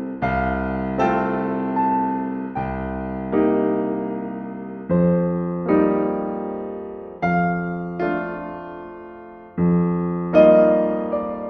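Slow, gentle solo piano music: chords struck every second or two and left to ring out and fade.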